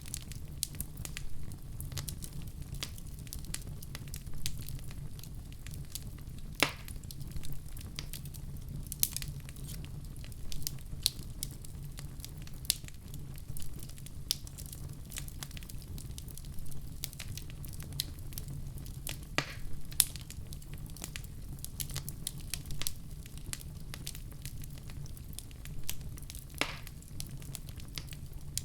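Wood fire crackling, with irregular sharp pops over a low steady rumble of burning flames; a few pops stand out louder, around 7, 19–20 and 27 seconds in.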